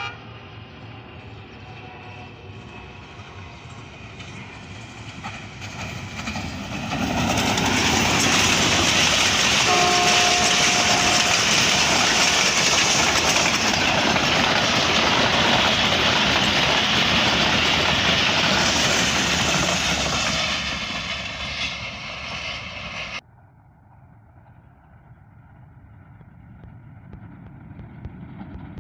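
A passenger train's horn sounds at the start, then the train passes close by with loud track noise and wheel clatter. A short horn note sounds about ten seconds in. The noise fades and cuts off abruptly a few seconds before the end, after which a quieter rising noise begins.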